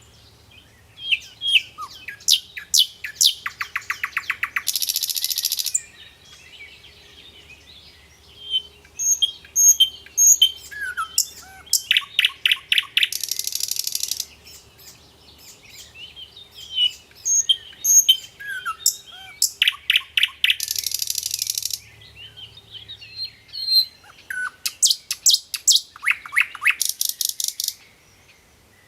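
A songbird singing the same song three times: scattered chirps building into fast trills, each ending in a harsh buzzy burst lasting about a second.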